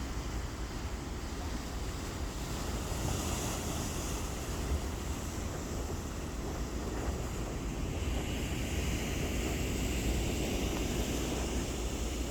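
Ocean waves washing in, a steady surf noise that swells a little in places, with wind rumbling on the microphone.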